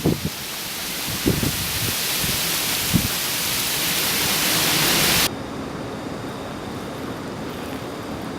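Steady, loud rushing hiss that builds slightly and cuts off abruptly about five seconds in, leaving a quieter, duller hiss. Two soft thumps come in the first three seconds.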